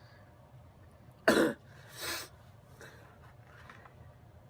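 A person's short, sharp cough-like vocal burst about a second in, followed by a softer one just after.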